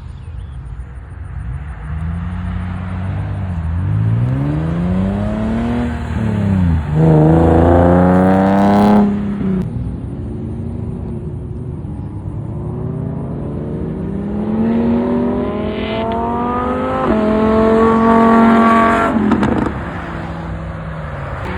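A car engine being revved repeatedly. Its pitch climbs and falls, with two loud high-rev pulls, one about a third of the way in and one near the end, each dropping off sharply.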